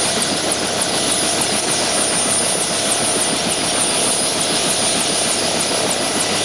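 Helicopter running close by: a steady loud engine and rotor rush with a high thin turbine whine over it.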